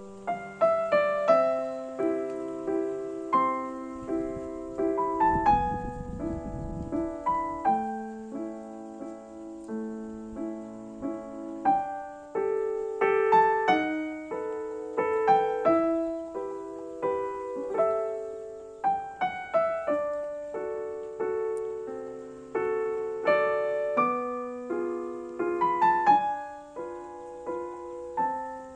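Background piano music: a gentle melody of single struck notes over a simple accompaniment. A brief low rumble sounds underneath about five seconds in.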